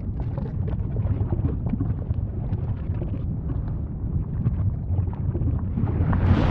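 Volcano rumbling deeply, with scattered crackles and pops over the rumble; near the end a louder rushing blast comes in.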